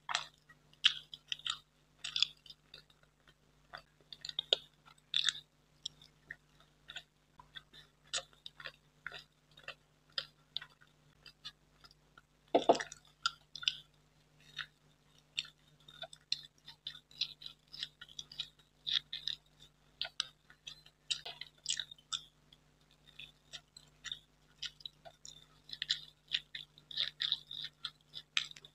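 Close-miked chewing of soft gulab jamun: irregular short mouth clicks and smacks as it is bitten and chewed, with one louder smack about halfway through.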